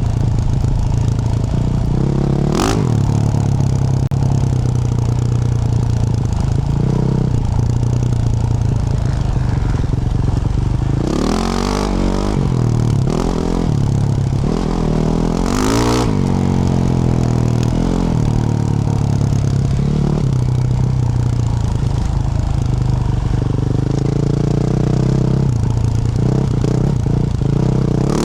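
Yamaha YZ450F's single-cylinder four-stroke engine, with a Yoshimura RS-12 exhaust, running at low steady revs, revving up and back down twice around the middle. A sharp click comes a few seconds in.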